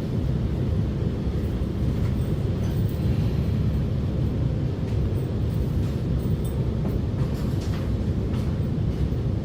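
Alstom MOVIA R151 metro train running, heard from inside the car as a steady low rumble with a few faint clicks.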